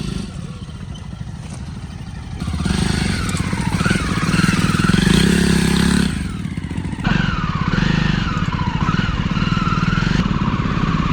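Motorcycle engine running while riding, its pitch rising and falling a few times.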